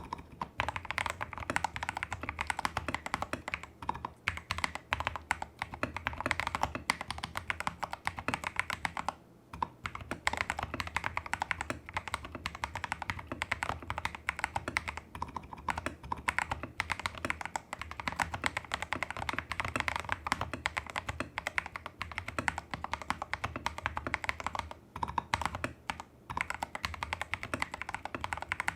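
Steady, fast typing on a Tester68 custom mechanical keyboard with lubed clone Holy Panda tactile switches, a taped PCB, modded stabilizers and XDA-profile keycaps. The typing breaks off briefly about nine seconds in and again for short moments near the end.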